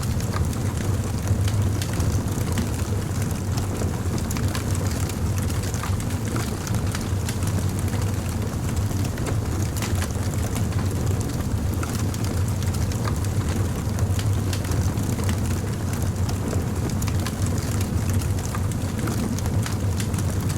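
Fire crackling, with many small sharp pops scattered over a steady low rumble.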